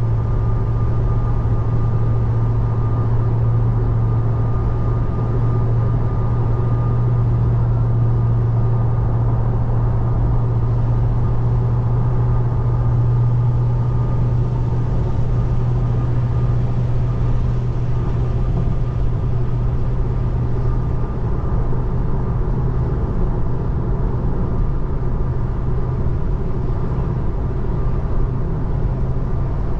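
Steady road and tyre noise heard inside the cabin of a moving 2024 Tesla Model 3, an electric car, with a constant low hum and no engine sound.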